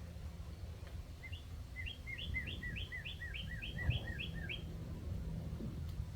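A bird calling a quick run of about a dozen short chirps, three to four a second, starting about a second in. These are the excited calls of birds worked up by a black rat snake at their nest.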